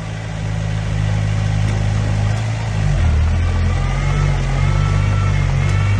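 Heavy diesel engine of earthmoving machinery running steadily, its note dropping and then rising again about halfway through as the load or throttle changes.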